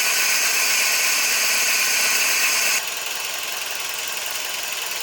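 Toyota Vitz turbo engine idling cold just after start-up: a steady mechanical running noise with a strong rushing hiss of air through the throttle and intake manifold. A little over halfway through it drops abruptly to a quieter steady running sound.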